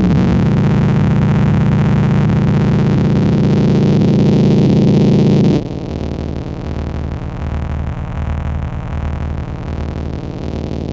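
Experimental electronic noise music from Bastl Kastle and Korg Volca Modular synthesizers: a dense drone of thick low buzz and hiss. About five and a half seconds in it cuts abruptly to a quieter layered drone with a low throb pulsing about twice a second.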